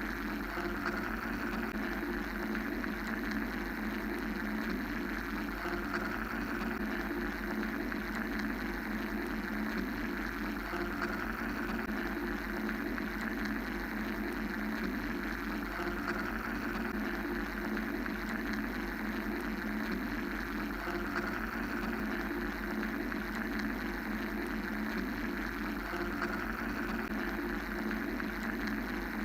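Steady mechanical white-noise drone: an even, machine-like hum and hiss that gently swells about every five seconds, with no other changes.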